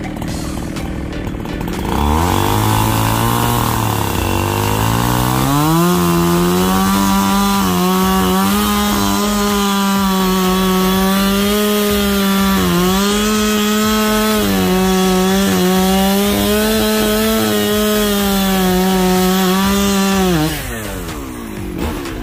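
Two-stroke chainsaw engine run up from low revs a couple of seconds in and held at high revs, with a few brief dips in pitch as it works through the wood. Near the end the throttle is released and the revs fall away.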